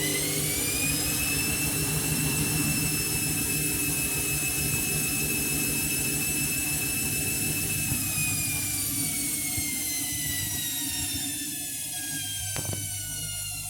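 Candy Grand'O Vita 7 kg washing machine spinning: the motor's whine climbs in the first second, holds steady at top speed, then falls away steadily over the last several seconds as the drum slows. A single short click comes near the end.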